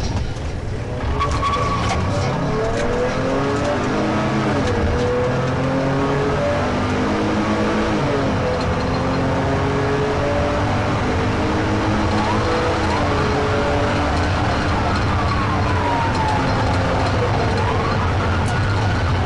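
Vehicle engine revving hard and shifting up through the gears at pursuit speed, over steady road and wind noise. A police siren wails up and down over it in the last third.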